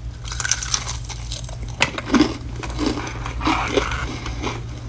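A person biting into crunchy food and chewing it: a sharp crack about two seconds in, then a run of irregular crunching bites.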